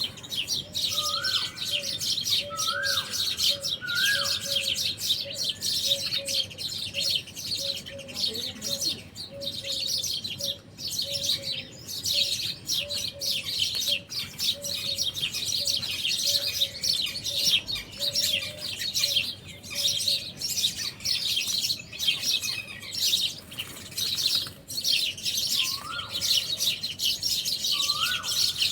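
Many small birds chirping continuously in a dense chorus, with a steady run of short, lower notes, a bit more than one a second, through the first two-thirds. A clearer rising call repeats three times near the start and three times again near the end.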